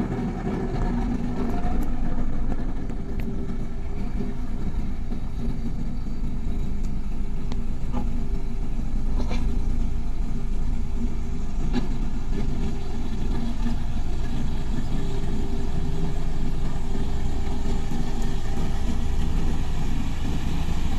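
Diesel engine of heavy road-building machinery running steadily under load, with a few faint clicks or knocks in between.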